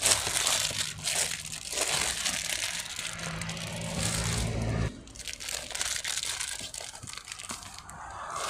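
Crinkling, crunching noise, with a low steady hum underneath that stops abruptly about five seconds in.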